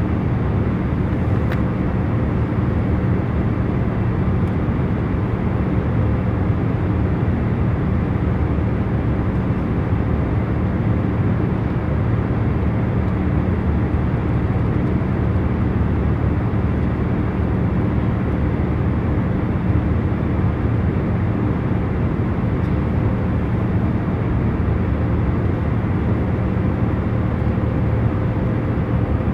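Airliner cabin noise in cruise flight: a steady low rushing hum with a few faint steady tones in it.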